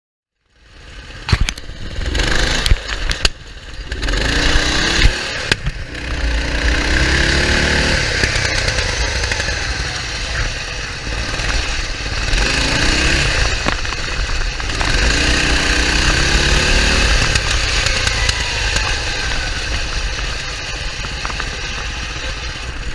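Wheel Horse lawn tractor's 11 hp engine running hard, its pitch rising and falling several times as it is driven, with a few sharp knocks in the first few seconds.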